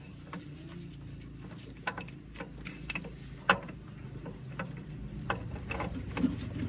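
Irregular metallic clicks and clinks of tools and steel parts being handled while working on a tractor gearbox, with one sharp click about halfway through.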